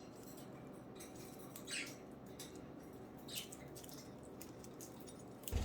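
Budgerigars chirping faintly: a few short, high chirps spaced about a second and a half apart, with a low bump right at the end.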